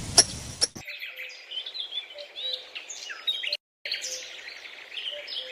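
Birds chirping in many quick, overlapping high notes, after a short burst of noise right at the start. The sound cuts out for a moment about three and a half seconds in.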